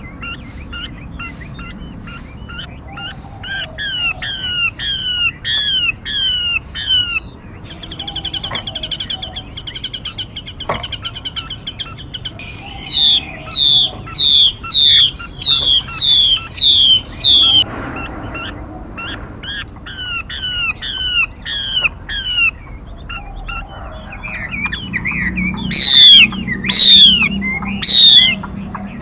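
Songbird decoy recording of a female 'mi' bird calling: runs of short chirps, a fast rattling trill about a third of the way in, then a series of sharp, loud downward-sweeping whistles about twice a second, with three loudest whistles near the end.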